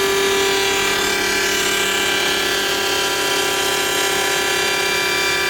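Hundegger K2 wood CNC machining center running with a steady pitched whine, unchanging throughout.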